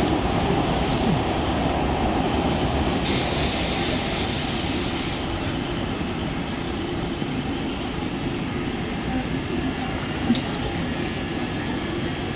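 Mumbai suburban local electric train running along the platform, a steady rumble that slowly grows quieter, with a burst of hiss lasting about two seconds around three seconds in.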